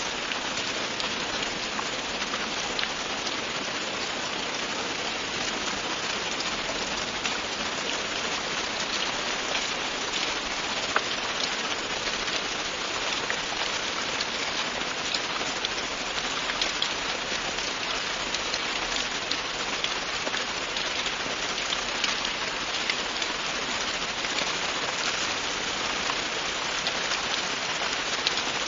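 Steady, continuous rain falling on a surface, a dense even patter with many fine individual drop ticks.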